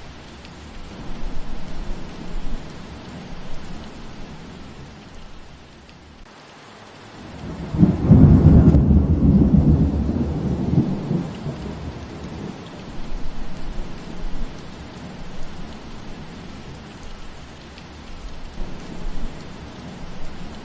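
Steady rain with thunder: a loud low rumble of thunder swells about eight seconds in and fades over three or four seconds, with fainter low rumbles before and after.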